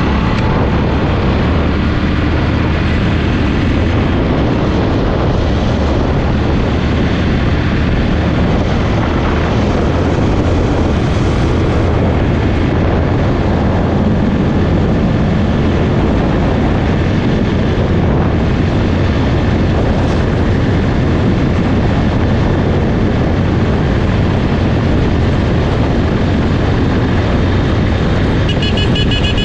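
Motorcycle engine running at highway speed under wind rush on the microphone, a loud, steady roar.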